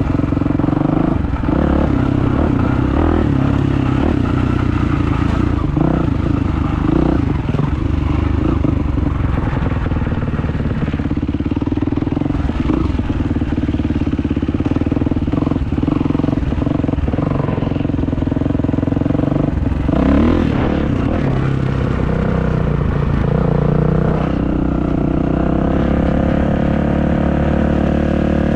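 Kawasaki motocross bike's engine running under way, its revs rising and falling as the rider works the throttle, with scattered clatter and knocks from the bike.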